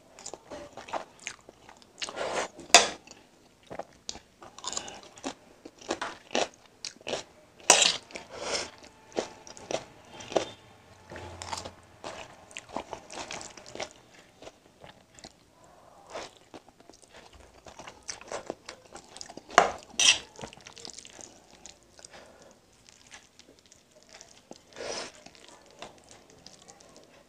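Close-miked chewing of a mouthful of spicy egg noodles: wet mouth sounds and lip smacks in an irregular run, with a few louder sharp smacks about three, eight and twenty seconds in. Now and then a metal fork clicks against the steel plate.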